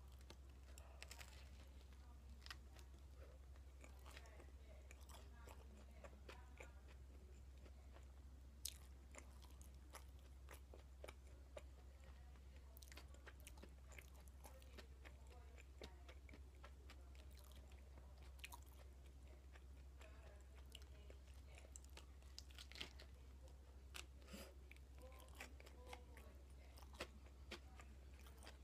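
Close-miked chewing and crunching of toast topped with potato salad, with sharp crisp crunches scattered throughout over a steady low hum.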